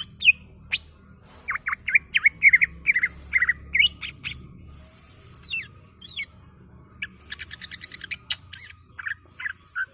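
Green leafbird (cucak ijo) singing its 'criwikan' chatter: runs of short, quick chirps, a few fast rising whistles near the middle, and a rapid clicking trill later on.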